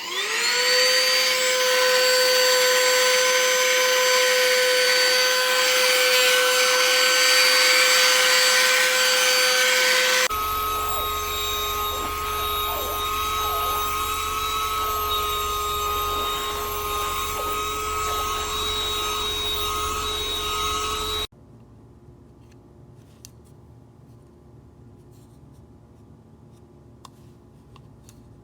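Cordless handheld vacuum's motor spinning up with a rising whine, then running steadily at a high pitch. About ten seconds in, the sound changes abruptly to a lower steady whine over a low hum. About twenty-one seconds in, it drops abruptly to a much quieter steady hum.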